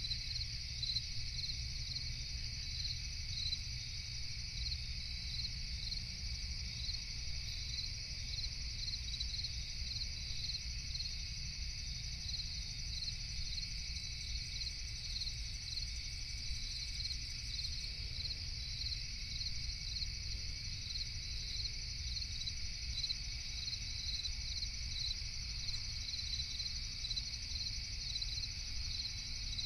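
Crickets chirping at night: a continuous high trill with regularly repeating chirps, over a steady low rumble.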